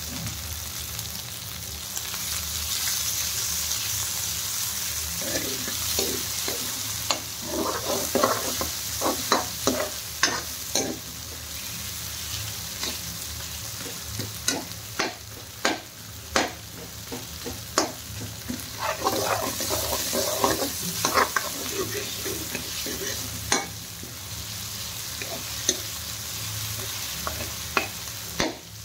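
Chopped onions and green chillies sizzling as they fry in desi ghee, with a metal spoon scraping and knocking against the pan as they are stirred. The knocks come in quick runs through the middle, over the steady sizzle.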